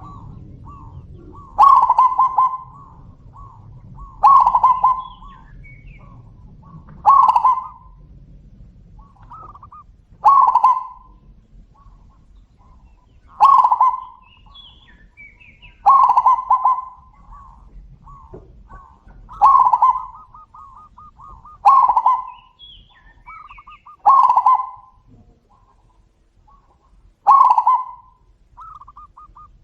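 Zebra doves (perkutut) cooing. A loud, staccato, trilling coo phrase repeats about every two and a half to three seconds, and fainter trilled coos come in between the loud phrases.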